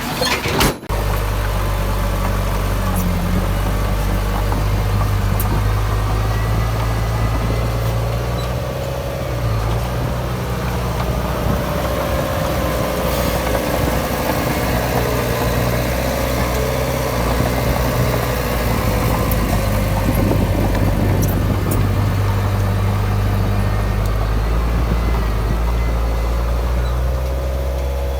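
Heavy diesel engine of a crawler bulldozer at work, running steadily with slight rises and falls in pitch. There is a brief break just under a second in.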